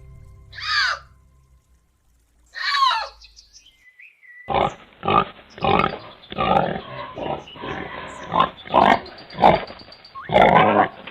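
Two short falling calls, then from about four seconds in a pig grunting in quick, repeated grunts.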